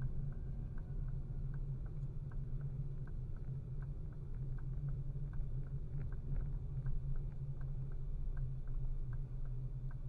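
Steady low rumble of a moving car, with a light regular ticking about two to three times a second.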